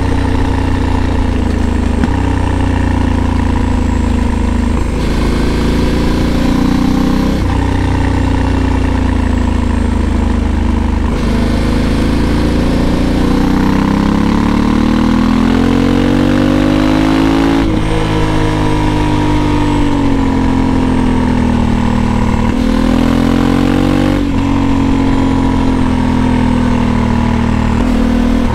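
Honda Africa Twin 1100's parallel-twin engine pulling under way, its pitch climbing through each gear and dropping sharply at every shift, several times over.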